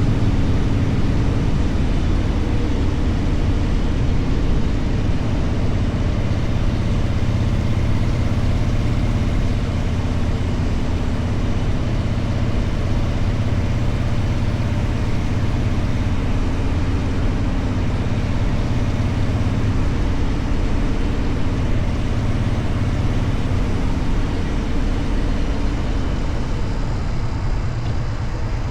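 Motorcycle engine running steadily while riding, a constant low rumble under road and air noise that eases off a little near the end.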